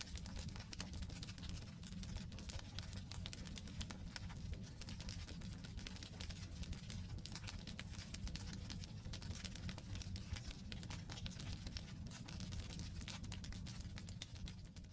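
Wood campfire burning, with a steady stream of small pops and crackles over a low rumble of the flames.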